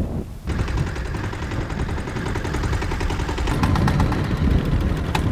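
Small fishing boat's engine starting about half a second in and running, with a rapid, even popping that grows sharper about three and a half seconds in.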